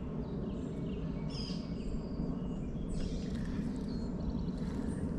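Birds chirping and calling in short scattered phrases over a steady low background noise.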